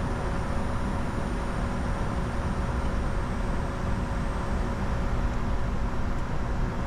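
Steady cockpit noise of a Bombardier Challenger 605 jet in descent: an even rushing hum with a few faint steady tones and a faint high whine that drifts slightly lower over the first few seconds.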